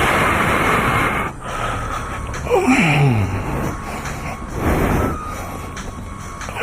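Kawasaki ZX-6R inline-four motorcycle engine running with wind rushing over the helmet camera's microphone; the engine's pitch falls sharply about two and a half seconds in as the revs drop.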